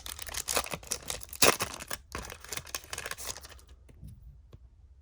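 Foil wrapper of a trading-card pack crinkling and tearing as it is opened, dense rustling for about three and a half seconds, loudest about a second and a half in, then dying down.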